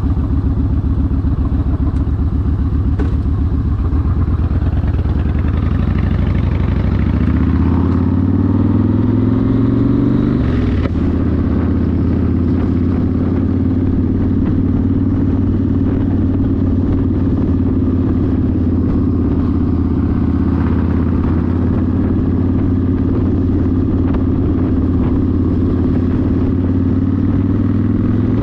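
Yamaha Warrior 1700's V-twin engine through a custom exhaust, running with low, even pulses at first, then revving up from about six seconds in and dropping sharply at an upshift around ten seconds, before cruising at a steady pitch that rises slightly near the end.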